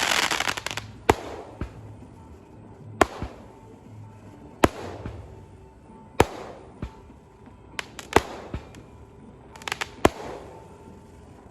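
Fireworks going off: about a dozen sharp bangs at irregular intervals, each trailing a short crackle, with a dense burst of crackling right at the start.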